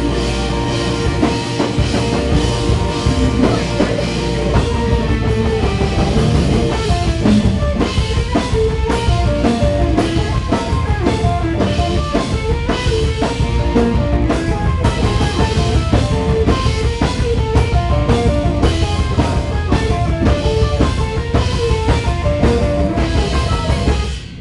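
A live rock band playing: drum kit hitting hard under guitars and bass. The music stops abruptly at the very end.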